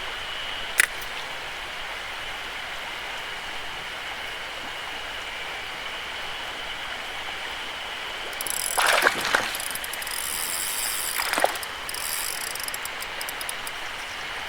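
Mountain stream running steadily. From a little past halfway, a fishing reel is cranked for about four seconds in rapid, high clicking runs, with two short swishes among them.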